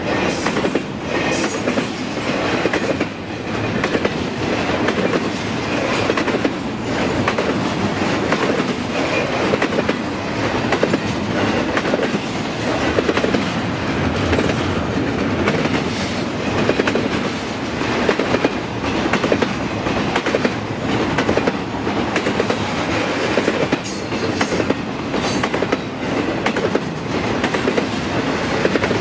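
Train cars rolling past close by, a continuous rumble with the wheels clicking over rail joints all the way through.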